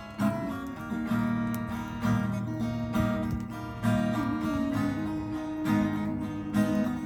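Acoustic guitar strummed in chords, with a strong strum about once a second and the chord changing every few strums.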